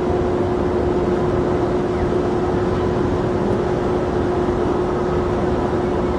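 Steady jet aircraft engine noise at the airport: an even, unbroken rush with a constant hum underneath.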